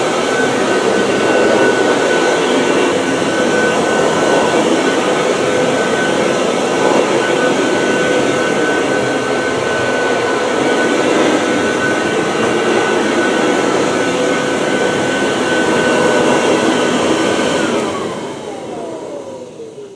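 1979 Kirby Tradition upright vacuum cleaner running steadily with a high motor whine. About two seconds before the end it is switched off and winds down, the whine falling in pitch.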